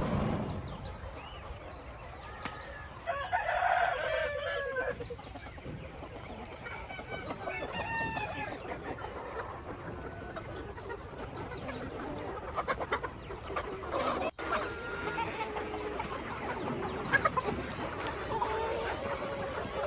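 Chickens: a rooster crows loudly about three seconds in, with hens clucking throughout.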